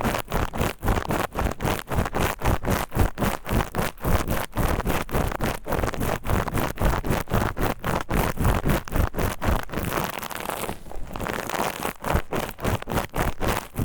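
Steel wool pad scrubbing against the ear of a KU100 binaural dummy-head microphone: rapid, even scraping strokes, about four a second, easing briefly around two-thirds of the way through.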